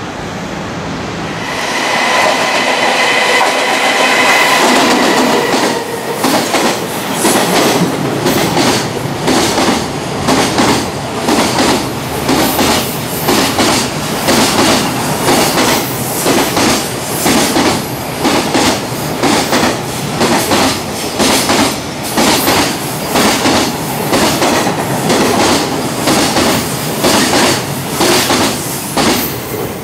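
Electric freight train passing at speed: a steady whine as the locomotive goes by in the first few seconds, then the rhythmic clickety-clack of container wagons' wheels over the rail joints, about once a second.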